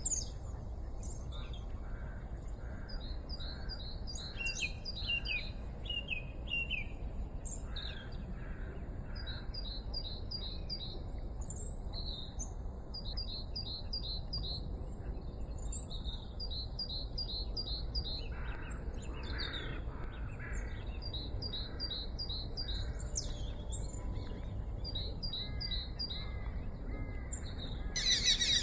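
Small birds singing: repeated phrases of quick, short, high notes, with a steady low background hiss underneath. A louder, denser burst of song comes right at the end.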